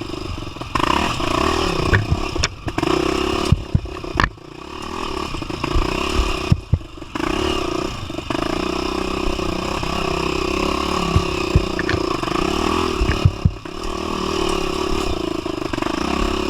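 Single-cylinder four-stroke trail motorcycle running under throttle, its level dropping briefly several times as the throttle closes, with sharp knocks and rattles throughout.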